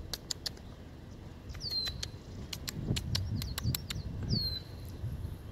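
A bird calling: a short high whistle that slides down and levels off, heard twice, about two seconds and about four and a half seconds in. Quick sharp high ticks are scattered through the first few seconds.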